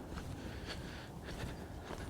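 Faint footsteps of a hiker on a steep dirt trail: a few soft scuffs over a low rumble.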